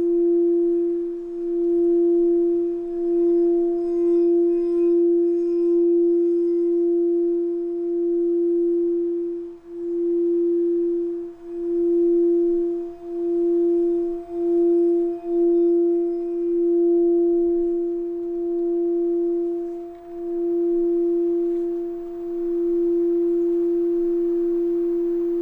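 Singing bowl sounding one steady low tone with a fainter higher overtone, its loudness swelling and dipping every second or two.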